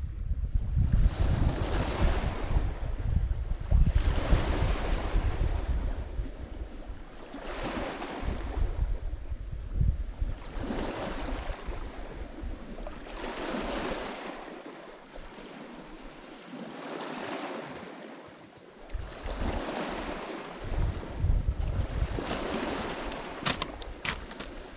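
Lake Michigan waves breaking on the shore, one swell every three seconds or so, each rising and washing away. Wind buffets the microphone with a low rumble, and a few sharp clicks come near the end.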